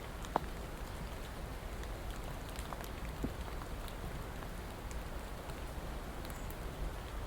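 Steady rain falling, with scattered single drops striking close by, one a little louder about half a second in.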